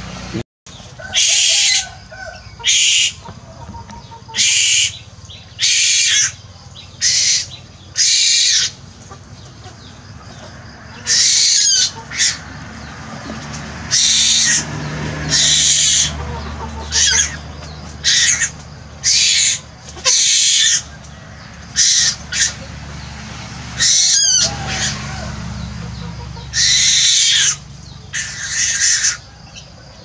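A young bird's harsh, hissing screeches, each about half a second long, repeated about fifteen times at irregular intervals: begging calls as it is hand-fed.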